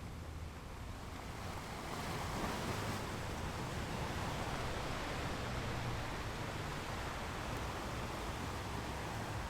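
Sea waves breaking on rocks: a steady rush of surf that swells about two seconds in and stays full.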